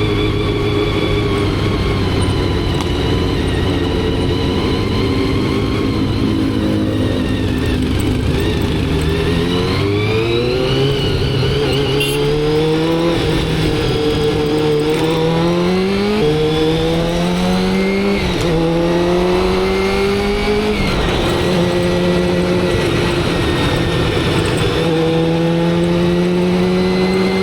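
Motorcycle engine running steadily, then accelerating up through the gears. The pitch climbs and drops back sharply at each of about four upshifts, then holds steady at a cruise.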